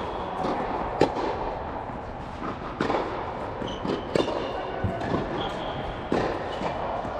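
Tennis balls struck with rackets during a drill: sharp pops every second or two at an uneven pace.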